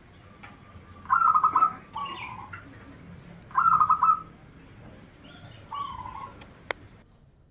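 Zebra dove (perkutut) cooing: about four phrases, each a quick stuttering run of notes followed by a lower, drawn-out coo. A single sharp click comes near the end.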